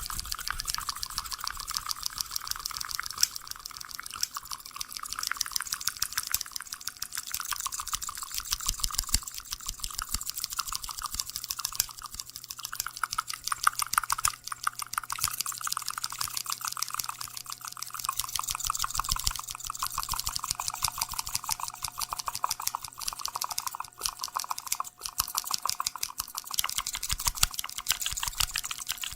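A dense, rapid train of small crisp clicks, close to the microphone, running steadily with slight swells and dips in loudness.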